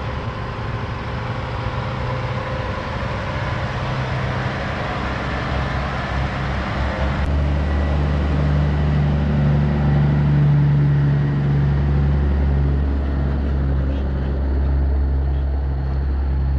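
A diesel truck engine idling close by: a steady low hum that grows louder over the first half, then takes on an even pulsing beat.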